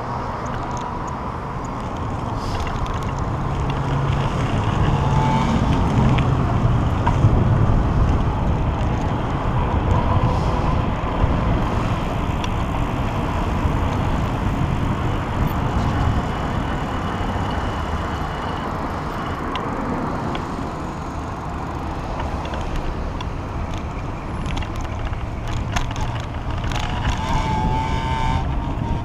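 Steady rumble of wind and road noise from a moving bicycle, with traffic noise that swells between about four and eleven seconds in.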